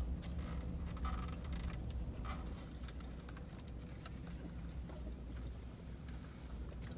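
Steady low hum inside a parked truck's cabin, with scattered faint clicks and rustles from food and wrappers being handled.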